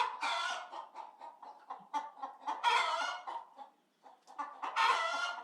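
Chickens clucking, with three longer drawn-out calls about two and a half seconds apart and short clucks between them.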